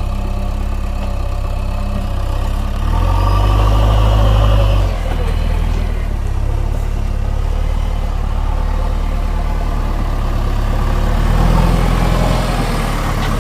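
Tractor engine running steadily, revving louder for about two seconds a few seconds in and again briefly near the end.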